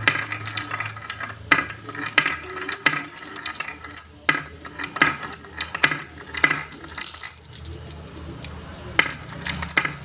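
Marbles clicking and clattering as they roll and drop through a marble run: many sharp, irregular clicks, over a low steady hum.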